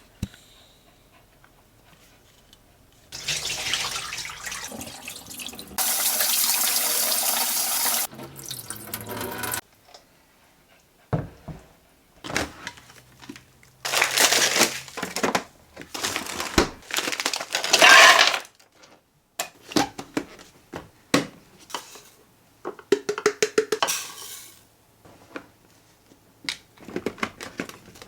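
Water from a tap running into a sink, steady and loud for a couple of seconds, then broken bursts of splashing with dishes clattering and clinking.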